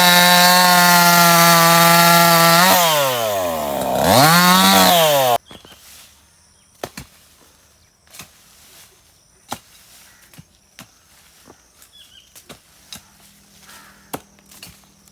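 A small engine running loud at high, steady revs; its pitch drops sharply and rises again, then the sound cuts off abruptly about five seconds in. Scattered faint clicks and ticks follow.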